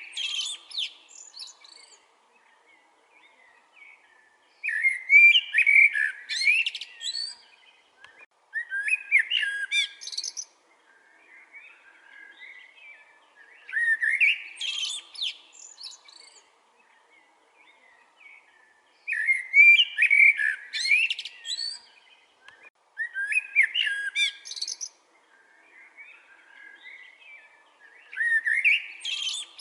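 Common blackbird singing: a series of separate song phrases, each about two seconds long, spaced every four to five seconds, each with higher thin notes toward its end.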